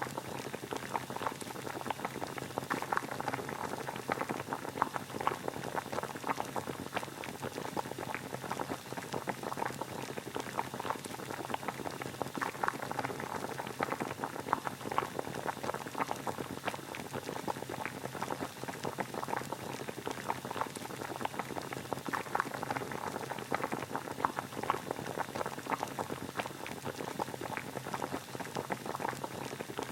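Water at a steady boil: a dense, even crackle of small bubbles popping.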